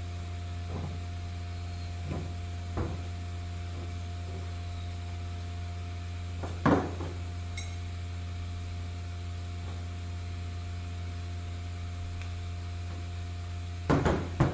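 A steady electrical hum with a few scattered knocks and clunks of parts being handled on a workbench, the loudest about two-thirds of the way through and a quick cluster near the end.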